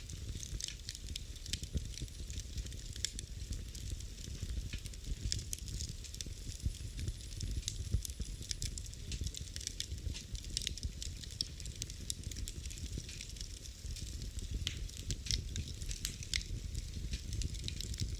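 Fire in a fireplace crackling, with frequent sharp, irregular pops and snaps over a low, steady rumble of flames.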